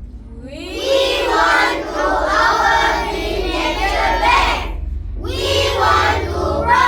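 A group of children's voices in unison, performing choral speaking: two long phrases with a short break about five seconds in, over a low steady hum.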